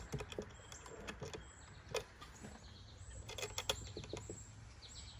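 Scattered light clicks and taps of small hardware being handled and fitted on a bird feeder, with faint bird chirps in the background.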